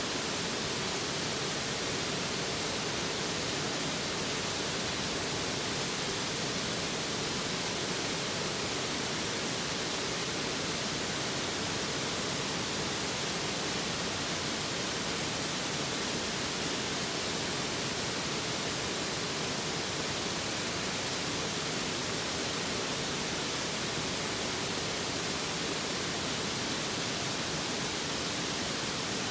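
A mountain stream rushing close by: a steady, even hiss of flowing water.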